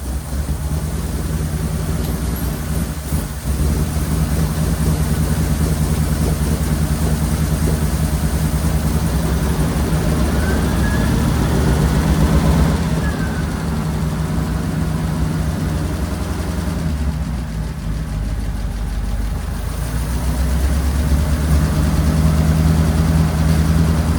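Ford flathead engine with twin Holley 94 carburetors idling steadily. It grows a little louder about halfway, drops back, and grows louder again near the end. The owner believes it is running rich and blames too much pressure from the mechanical fuel pump.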